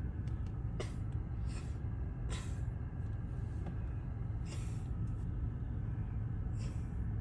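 Steady low road rumble of a moving car, with about five brief hissing swooshes spread through it.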